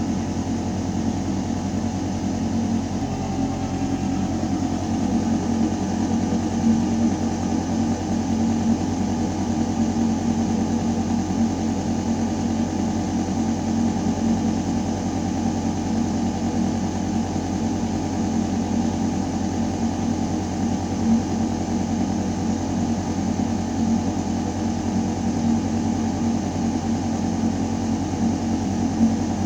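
Building ventilation system running: air moving through a metal duct, with a steady low drone and a few steady hum tones. A faint higher tone joins about three seconds in.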